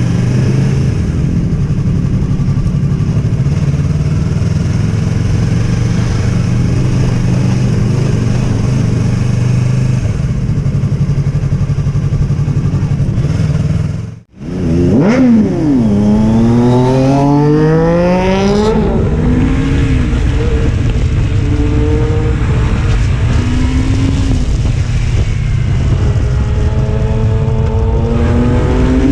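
Triumph Street Triple's inline-three engine on the move, running steadily at first, then, after a brief cut-out of the sound about halfway, revving hard with the pitch climbing steeply before a gear change and further rises and falls in revs.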